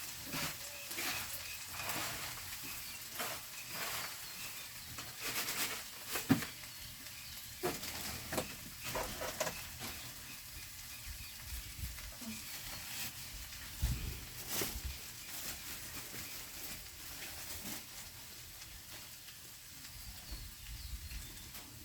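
Food sizzling in a pan, with scattered short clicks and scrapes of a utensil stirring it.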